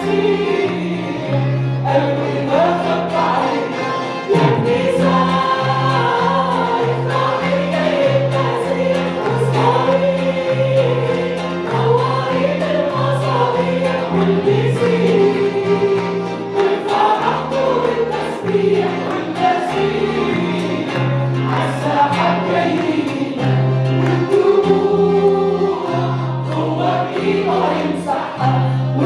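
A group of voices singing an Arabic hymn together, with instrumental accompaniment carried by a steady, stepping bass line.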